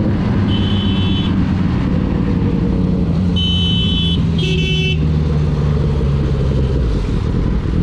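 Motorcycle engine running steadily on the move, with three short vehicle horn honks in the first five seconds.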